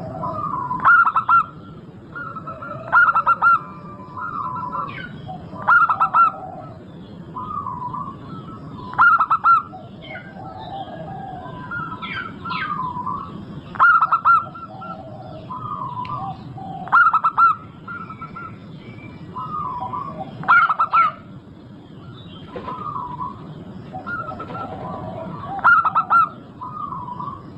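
Zebra doves (perkutut) singing: repeated cooing phrases of quick staccato notes, with a louder phrase roughly every three seconds. Other small birds chirp faintly behind them.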